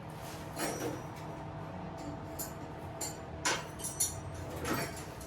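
Hand tools clinking and knocking against metal bolts and the minibike frame, several separate short clicks with a little scraping, while bolts are being loosened during a teardown.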